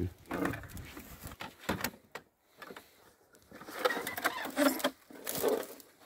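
Irregular clicks, knocks and rustling from a metal bucket holding a dismantled electronic bird-call lure being handled and carried through brush, busiest about two-thirds of the way in.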